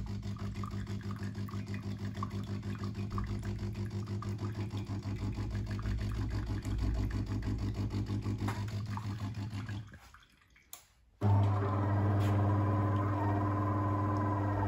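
DeLonghi automatic espresso machine running its start-up rinse: the water pump pulses about four times a second, then stops about ten seconds in. After a click, the brew unit's gear motor starts with a steady hum as it drives the brew unit, the drive the owner says is failing from a worn, cut main shaft.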